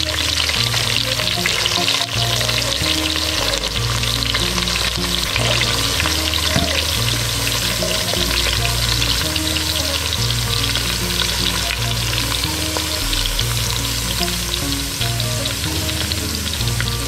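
Freshly added chopped shallots sizzling steadily in hot oil in a clay pot.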